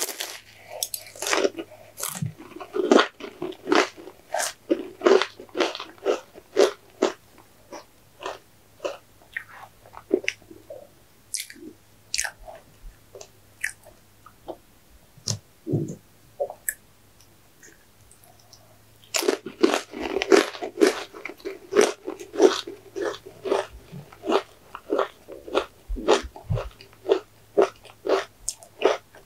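Close-miked chewing and crunching of ice cream cake and crunchy chocolate balls, with crisp bites. There are two spells of dense crunching, one at the start and one starting about two thirds of the way in, with sparser, softer chewing between them.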